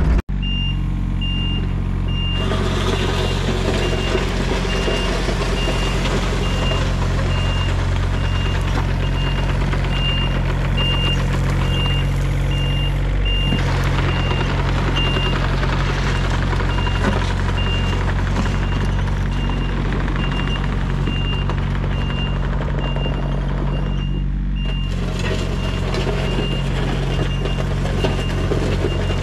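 John Deere 35D mini excavator's diesel engine running, with its travel alarm beeping steadily. The tracks clatter as it drives, going quiet for a stretch just before the last few seconds.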